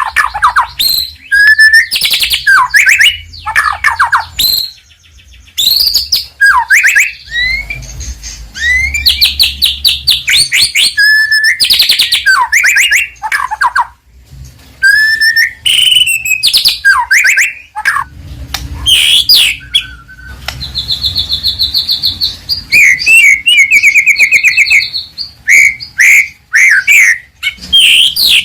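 White-rumped shama in full, loud song: a continuous run of varied whistled phrases sweeping up and down, broken up by fast trills of rapidly repeated notes.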